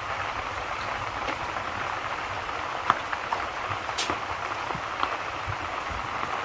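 Steady rain hiss mixed with the scattered crackles and pops of a wood fire, with a couple of sharper pops about three and four seconds in.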